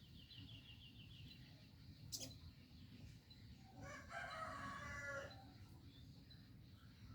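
A young rooster crowing once, a faint pitched call a little over a second long, about four seconds in. For a young bird, crowing is the sign that it is male. Before it comes a quick run of high chirps and a single sharp click.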